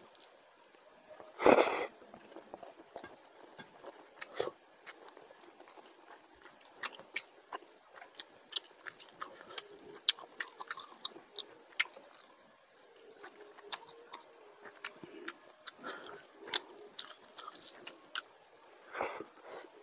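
Close-miked chewing and wet mouth sounds of someone eating rice mixed with oily fish curry by hand: many short clicks of lips and tongue, with a louder burst about a second and a half in and another near the end.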